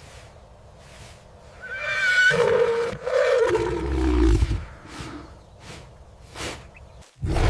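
A horse whinnying: one call that starts high and quavering, then falls steadily in pitch over about two and a half seconds.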